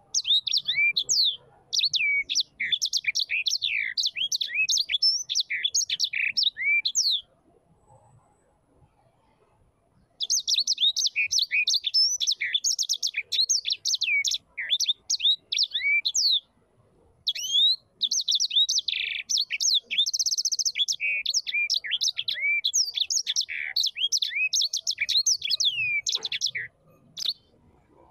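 A small bird chirping and singing in fast runs of short, high chirps and sweeps. It breaks off for about three seconds some seven seconds in, and pauses again briefly later.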